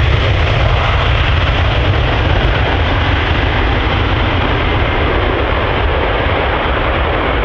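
ATR turboprop's Pratt & Whitney engines and propellers running at takeoff power: a loud, steady rush of noise over a deep rumble that eases slightly near the end.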